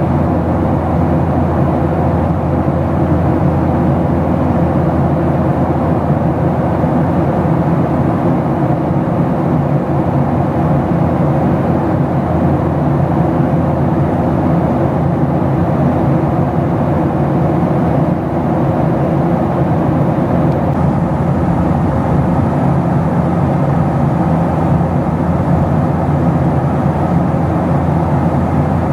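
Cabin noise of a Boeing 737-700 airliner in flight: a steady, loud drone of the engines and the airflow over the fuselage, with low hum tones under an even rush.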